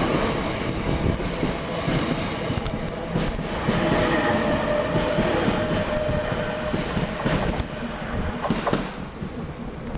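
Class 465/466 Networker electric multiple unit moving through the station, wheels rumbling on the rails with a squeal held for a couple of seconds about four seconds in. The sound dies away near the end.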